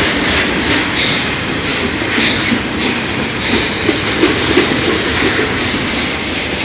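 Train passing close by: a steady loud rumble and clatter of wheels on the rails, with a few brief high wheel squeals.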